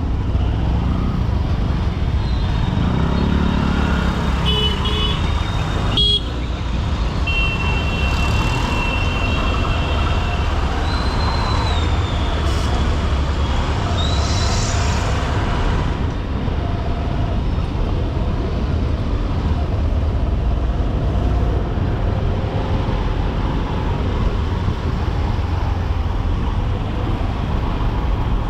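Riding a Honda SP125 single-cylinder commuter motorcycle in dense traffic: a steady low engine and road rumble, with other vehicles' horns honking several times in the first half, one held for a couple of seconds. A sharp click sounds about six seconds in.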